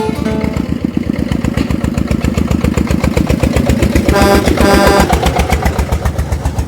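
An engine idling with an even, rapid pulse, and two short pitched notes about four and five seconds in.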